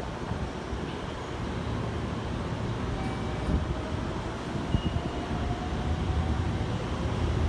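Keikyu 1000-series electric train pulling out of the station: a low rumble that slowly grows louder, with a faint motor whine rising in pitch from about three seconds in as it gathers speed.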